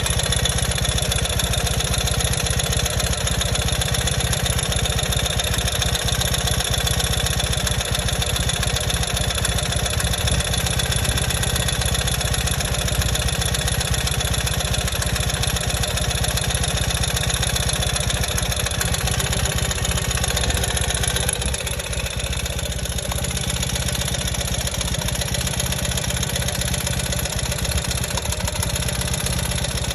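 2020 Ural motorcycle's air-cooled boxer-twin engine idling steadily, heard through a mechanic's stethoscope. The sound shifts and drops a little about two-thirds of the way in.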